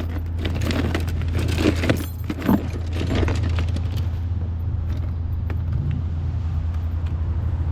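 Ice cubes clattering and rattling as they are tipped out of a container, busiest in the first three seconds, over a steady low engine hum.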